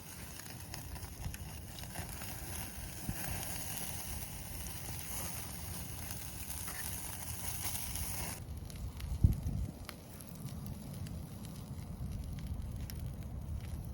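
Wood campfire crackling, with meat cooking on a grill net over it. A high hiss stops abruptly about eight seconds in, and a single knock follows about a second later, under a steady low rumble.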